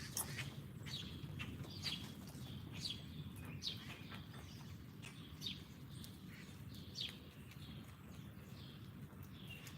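Songbirds chirping: short, quick down-slurred chirps about once a second, thinning out in the last few seconds, over a low steady rumble.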